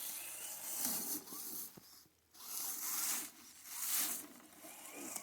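RC crawler trucks' brushed electric motors and gearboxes whirring in short throttle bursts, stopping and starting several times, with a brief quiet gap about two seconds in.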